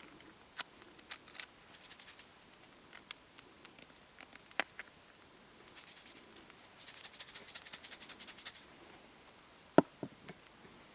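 Hamburger patties sizzling over a charcoal fire in a washing-machine drum, with irregular crackles and pops from the fat and coals. A dense run of crackling comes about seven seconds in, and a single louder sharp click comes near the end.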